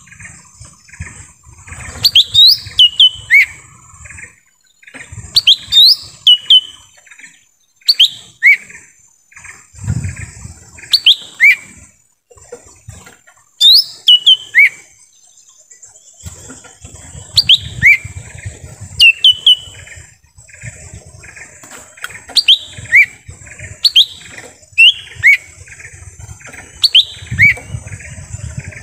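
Lesser green leafbird (cucak ijo mini) calling: loud, sharp, downslurred whistled notes in clusters of two to four, repeated every second or two. A steady high-pitched drone runs behind it.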